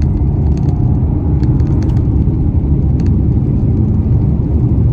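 Car driving, heard from inside the cabin: steady low rumble of engine and road noise as it pulls away.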